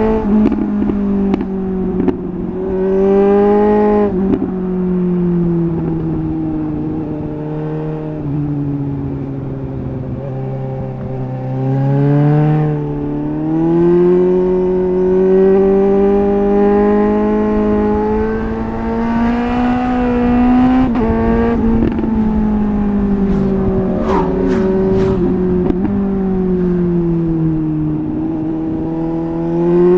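Suzuki GSR 750's inline-four engine through a MIVV Double Gun aftermarket exhaust on the move, its revs rising and falling as the bike is ridden, with a few sharp cracks from the exhaust about three-quarters of the way through.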